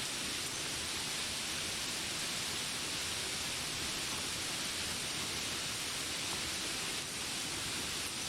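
Steady rain falling, an even hiss with no separate drops or animal calls standing out.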